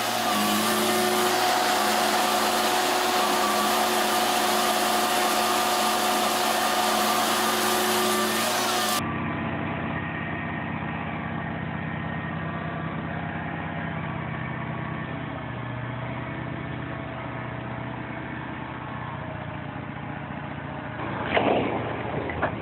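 Vehicle engines running steadily with a constant pitch. About nine seconds in, the sound cuts to a different, lower engine drone. A few sudden louder knocks come near the end.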